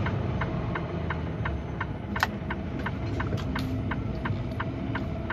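Semi-truck engine running at low speed, heard from inside the cab, with an even ticking about three times a second over it.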